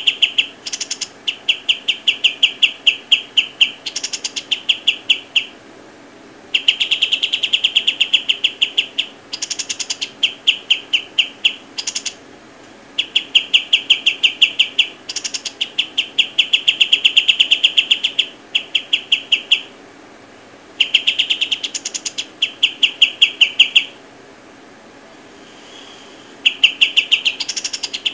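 A bird calling in long runs of rapid, evenly repeated high chirps, several a second. Each run lasts a few seconds, with short pauses between runs.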